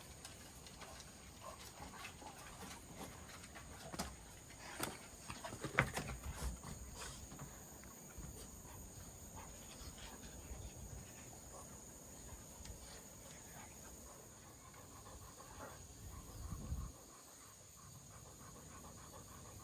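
French bulldogs panting, with a few sharp clicks and knocks about four to seven seconds in.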